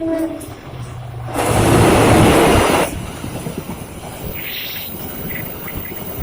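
A passenger train at a railway station. A short horn note sounds at the very start, then a loud rushing noise lasts about a second and a half, then it settles into steady rolling noise.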